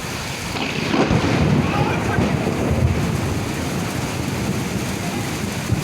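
Storm noise: steady rain and wind, with a low rumble that swells about a second in and slowly eases off.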